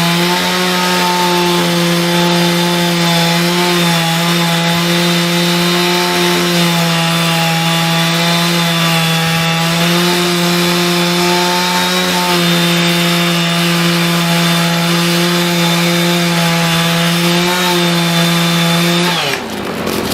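Chainsaw engine running at high, steady revs through a cut, its pitch dipping slightly now and then under load; near the end the revs fall away suddenly.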